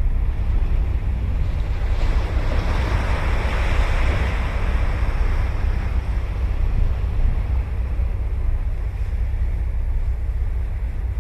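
Ocean surf breaking on a beach: one wave's wash swells about two seconds in and fades away by about six seconds in. Wind on the microphone adds a steady low rumble underneath.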